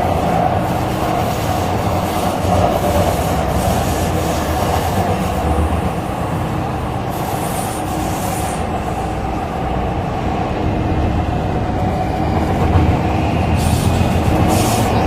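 MTR C-Train electric multiple unit in motion: a steady rumble of wheels and running gear on the track, with short stretches of high-pitched hiss or squeal from the wheels.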